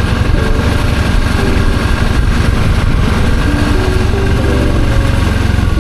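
Suzuki V-Strom 650's 645 cc V-twin engine running steadily, a loud low rumble throughout.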